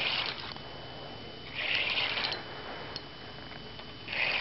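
A person sniffing sharply through the nose close to the microphone, three short breaths about two seconds apart.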